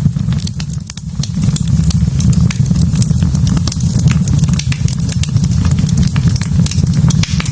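Wood fire in a fireplace crackling, with many sharp pops over a steady low rumble.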